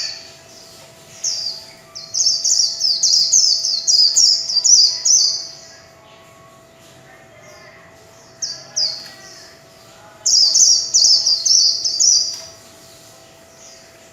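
White-eye (vành khuyên) singing its rapid 'líu chòe' song: two long bouts of quick, high twittering notes, with a few single notes before each, and a faint steady hum behind.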